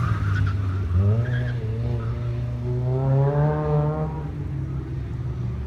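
Engine of an open tube-frame autocross car accelerating, its pitch climbing steadily for about three seconds, then dropping sharply about four seconds in.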